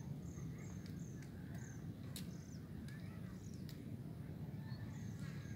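Small birds chirping in short high notes, a quick series in the first second and a half and scattered calls after, over a steady low outdoor rumble.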